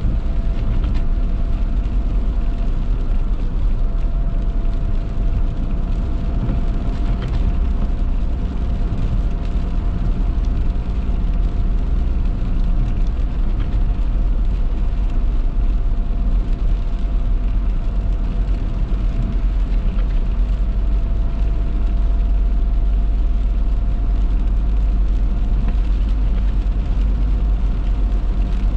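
Steady road noise of a car driving on rain-wet roads, heard from inside the cabin: a deep, even rumble of tyres and engine with a faint steady tone throughout.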